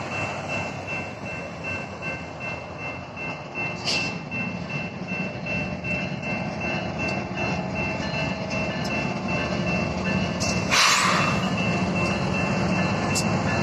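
BNSF freight train running through a grade crossing: diesel locomotive and rolling-stock rumble, growing a little louder toward the end, with the crossing's electronic bell ringing steadily over it. A short, loud hiss-like burst about eleven seconds in and a few sharp clicks.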